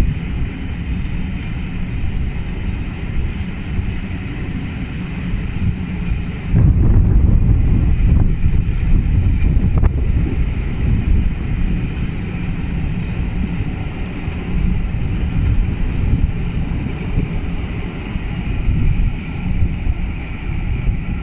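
Steam-hauled passenger coaches rolling past on curved track: a steady low rumble of wheels on rail that grows louder about six and a half seconds in, with a thin high wheel squeal coming and going.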